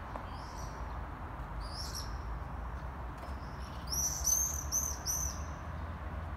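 Small birds chirping: a couple of single high chirps, then a quick run of four or five chirps about four seconds in, over a steady low background rumble.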